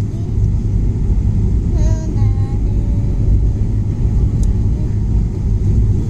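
Steady low rumble of cabin noise inside a jet airliner in flight. A brief high-pitched voice with a gliding pitch comes through about two seconds in.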